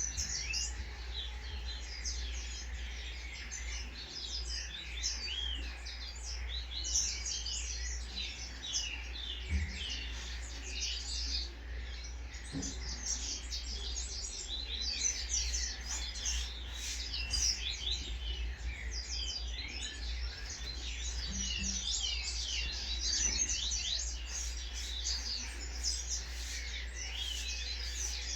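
Caged songbirds chirping and calling continuously, many short overlapping chirps and whistles at once, over a steady low hum.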